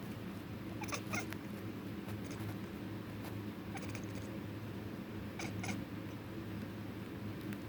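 Kitten making short, high chirping calls in several brief bursts, the chatter a cat makes when it sees birds. A steady low hum runs underneath.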